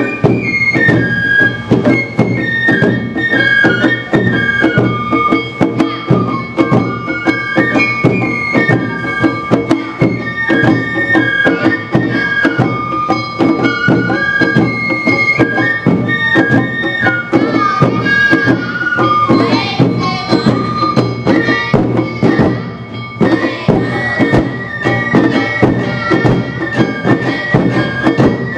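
Awa Odori festival music: bamboo flutes playing a stepping melody over quick, steady strokes of drums and bells in the dance's driving rhythm.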